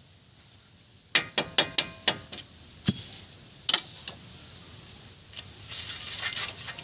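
Loose metal parts and hand tools clinking and clattering: a quick run of about six ringing metallic clinks, a few single knocks, then looser rattling near the end.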